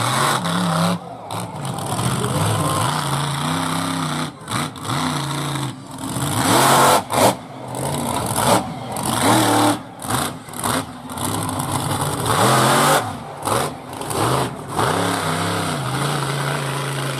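Monster truck engine revving up and dropping back to idle again and again, the pitch climbing and falling several times, with the sound cutting out briefly many times.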